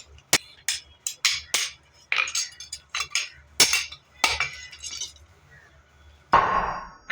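Blacksmith's hammer striking metal on an anvil: a quick, irregular run of light clinking taps, then a heavier blow near the end that rings on with a metallic tone.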